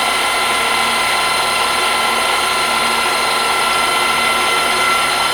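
Metal lathe taking a cut, the boring bar chattering with a steady high-pitched ringing of several tones over the cutting hiss.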